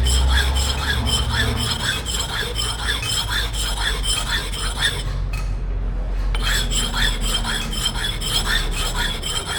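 Rhythmic rasping strokes of metal being sharpened or filed on a forged steel axe head, about two to three strokes a second, pausing briefly about five seconds in, over a steady low hum.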